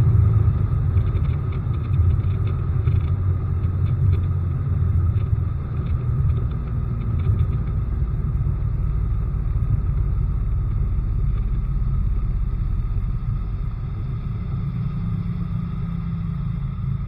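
Bass boat running under its newly fitted outboard motor, a steady low rumble.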